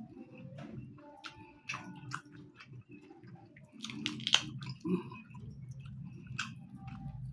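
Close-miked chewing of food, with irregular wet mouth clicks and smacks; a sharper click stands out about four seconds in.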